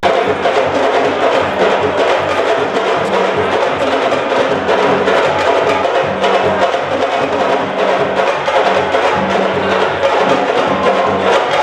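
Music driven by fast, steady drumming and percussion.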